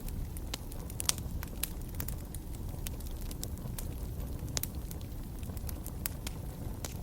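Wood fire burning in a fireplace, crackling with irregular sharp pops over a low steady rumble of flames.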